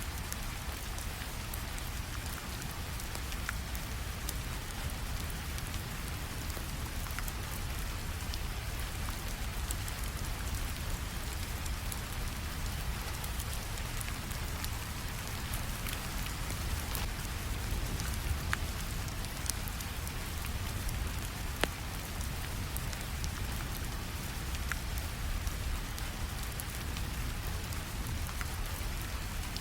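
Steady rainfall, with a few sharp, isolated crackles of a wood fire scattered through it.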